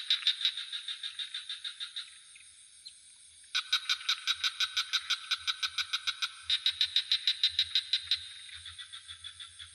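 A swamp frog chorus: frogs call in rapid pulsed trills of about seven pulses a second, in bursts of one to three seconds with a brief lull about two seconds in, over a steady high-pitched drone of crickets.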